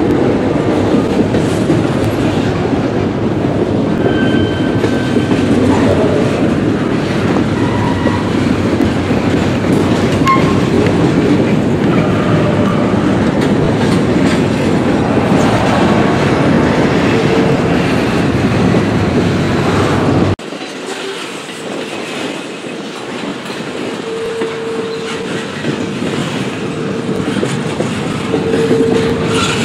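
Double-stack intermodal freight train rolling past: a steady rumble with the clickety-clack of wheels over the rail joints. About two-thirds of the way through, the sound drops suddenly and goes on quieter and thinner, with a few short steady tones now and then.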